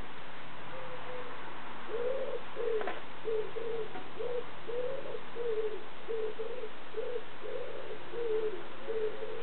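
A bird calling: a rapid run of short, low, cooing notes, about three a second, starting about two seconds in, over a steady hiss.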